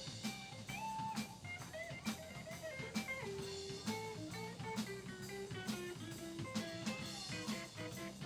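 Live band playing an instrumental passage: a drum kit keeping a steady beat under an electric guitar playing a lead line with bent notes.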